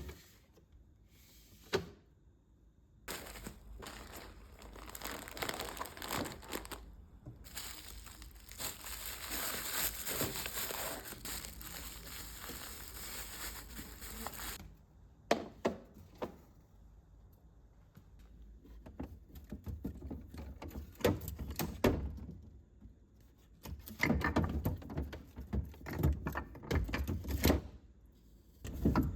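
Plastic packaging crinkling as it is handled for about ten seconds, followed by scattered knocks and thuds of items being moved about.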